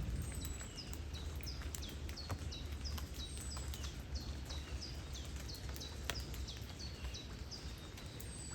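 Steady hiss of rain and flowing river water, with scattered sharp raindrop ticks. Over it a bird calls over and over in short, high chirps that slide downward, two or three a second.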